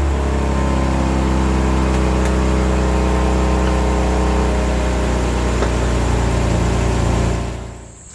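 Car engine running at steady revs, a low, even drone that settles slightly in pitch at the start and fades out near the end.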